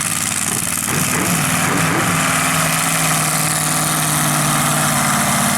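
Mega truck's big-block V8 engine running at a steady, idle-like speed, its pitch wavering briefly about a second in and then holding, over a loud hiss.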